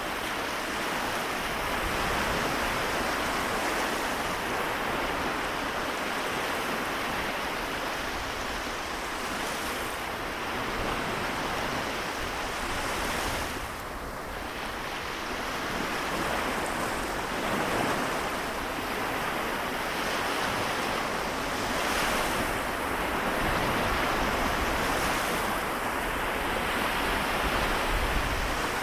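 Small waves of the Seto Inland Sea washing on the shore, a steady wash that swells and eases every few seconds, with some wind on the microphone.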